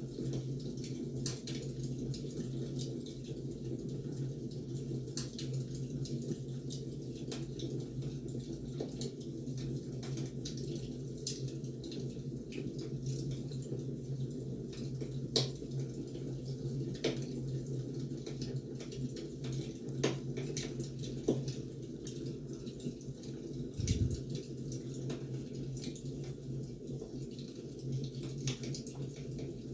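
Wood fire crackling: irregular sharp pops and snaps over a steady low rumble, with one dull thump late on.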